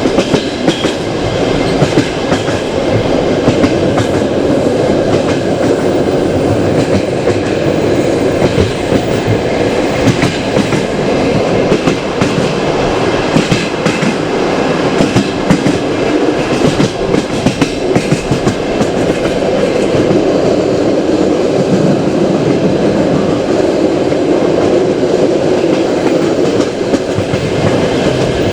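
Passenger train's carriage wheels running steadily over the rails, loud and continuous, with frequent clicking and clacking from the wheels passing rail joints.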